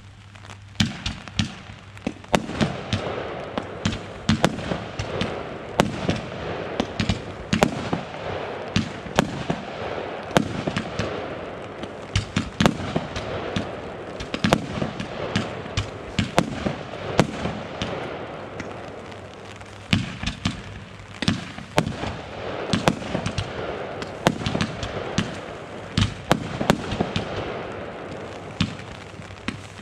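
Consumer fireworks firing in rapid, unbroken succession: a dense run of sharp bangs and crackling with several shots a second.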